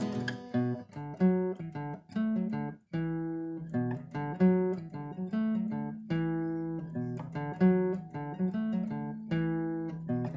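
Acoustic guitar played alone, picked chords with a note struck every half second or so and left to ring.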